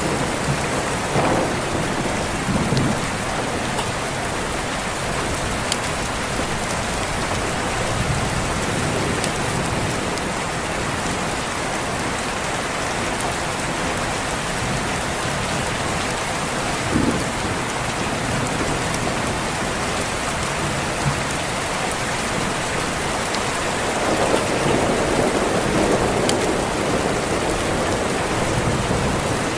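Steady rain with low rumbles of distant thunder. The biggest rumble swells up near the end.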